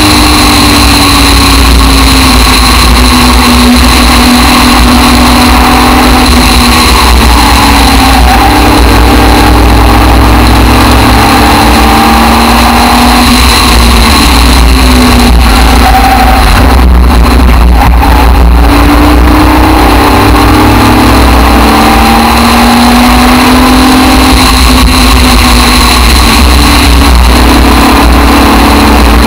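Aston Martin DBR1 tribute racing car's engine heard from the open cockpit at racing speed, its pitch rising under acceleration and falling back several times as the driver lifts and shifts through the bends, with one sharp shift near the end. Heavy wind rumble from the open cockpit lies underneath.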